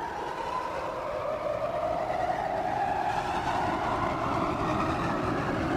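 Rumbling noise in a rock song's intro, growing slowly louder, with a tone inside it that drifts gradually higher, before the band comes in.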